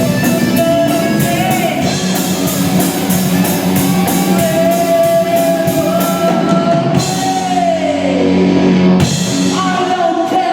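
Rock band playing live: a sung vocal line over electric guitar and drum kit, with long held notes, one sliding down about eight seconds in.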